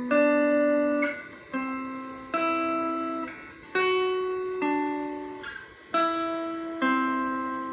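Clean electric guitar played on its neck and bridge pickups together, the bridge humbucker coil-split, through a small amp with room reverb. Chords are struck one at a time and left to ring and fade, a new one a little under once a second.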